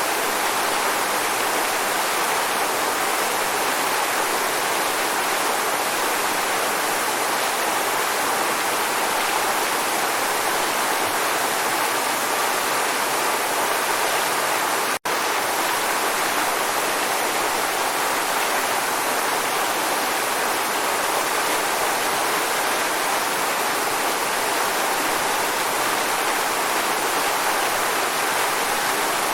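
Waterfall: water falling and rushing in a steady, dense roar of white-noise-like sound, with a split-second dropout about halfway through.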